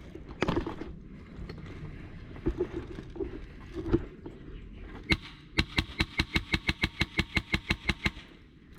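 Airsoft gun firing: a single shot about five seconds in, then a burst of about twenty rapid shots at roughly eight a second lasting about two and a half seconds. A few scattered knocks come before them.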